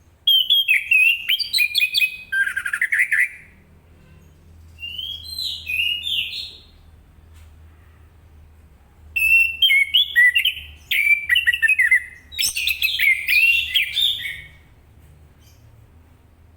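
Orange-headed thrush (anis kembang) in full song: four bursts of rapid, varied warbling phrases with short pauses between them, the second burst softer than the rest.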